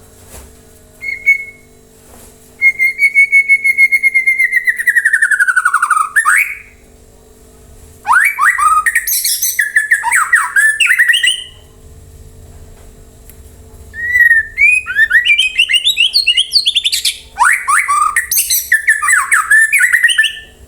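White-rumped shama (murai batu) singing loud whistled phrases, used as a lure song to set caged birds singing: a long, slowly falling whistle, then two bursts of quick, varied notes with short pauses between. A faint steady hum runs underneath.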